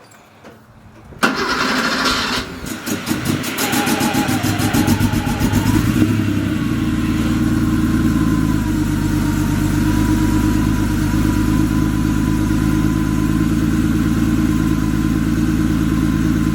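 1986 Porsche 930's air-cooled turbocharged flat-six cold-starting: a short burst of starter cranking about a second in, the engine catching and running unevenly for a few seconds, then settling into a steady cold idle.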